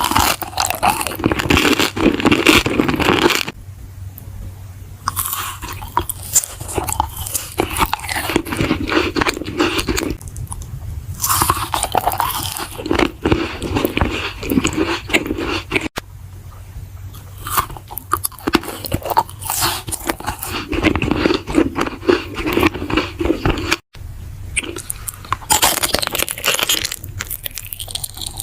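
Close-miked ASMR eating: a person biting into and chewing crunchy food, in repeated bouts of crackly crunches with short quieter pauses between them.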